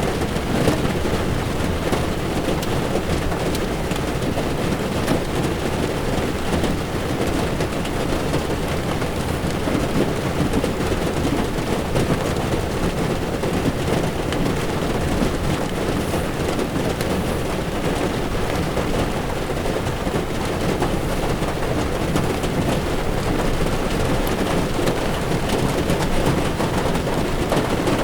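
Heavy rain falling on a car's windshield and body while its tyres run on a wet road, heard from inside the moving car: a steady, dense patter of drops over a low road rumble.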